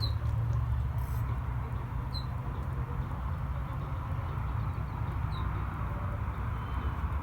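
A short, high, slightly falling chirp every two to three seconds, four in all, over a steady low rumble.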